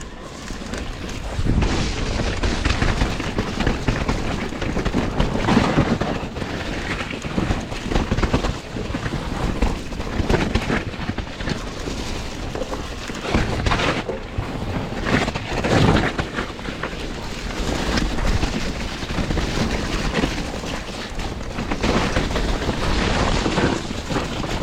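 Mountain bike ridden fast down a wet, muddy trail: wind rumbling over the microphone mixed with tyre and frame noise, rising sharply about a second and a half in and surging up and down.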